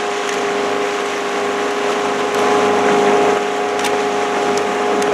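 A boat's engine running steadily under way, a constant drone with wind and water noise over it.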